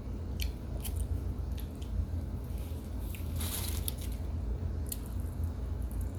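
Pressed cornstarch and baby powder brick being bitten and crumbled: scattered crisp clicks and a longer crumbly squish about three and a half seconds in.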